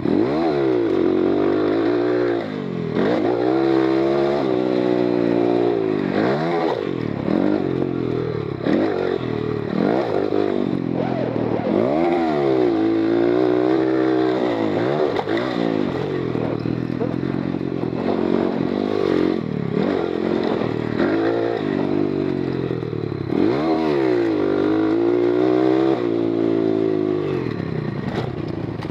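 GIO X33 pit bike's oil-cooled 140cc single-cylinder four-stroke engine being ridden hard, revving up and dropping back over and over, its pitch climbing and falling every second or two as the throttle opens and closes.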